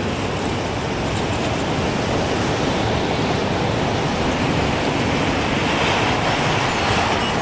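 Strong gusting wind blowing as a steady rush. A gust swells about six seconds in.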